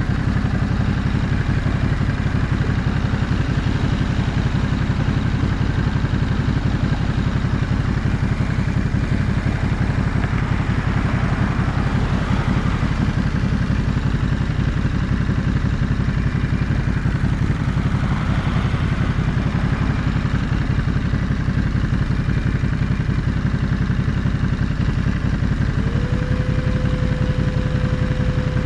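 Ducati Monster 937's 937 cc L-twin engine running at a steady engine speed throughout. A steady higher tone comes in near the end and holds.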